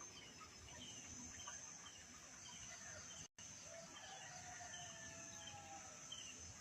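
Near silence in a pause between the greater coucal's hooting bouts, with faint scattered calls of other birds and a steady faint high-pitched hum.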